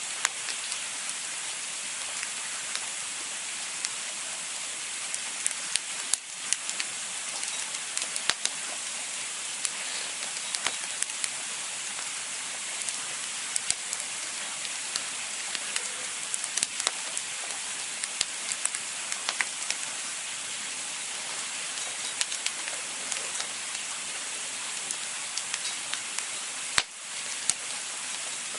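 Campfire burning with a steady hiss and frequent sharp crackles and pops, one louder pop near the end.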